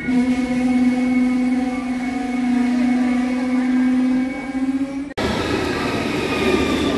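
Deutsche Bahn ICE high-speed train moving slowly along a station platform, giving off a loud, steady pitched hum with overtones. About five seconds in it cuts to the general noise of a busy railway platform.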